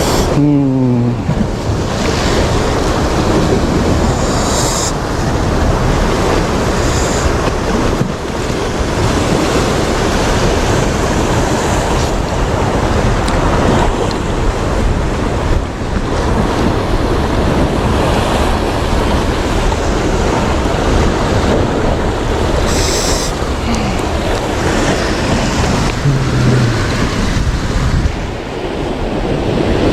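Sea waves washing and surging steadily along the shore, mixed with wind buffeting the microphone.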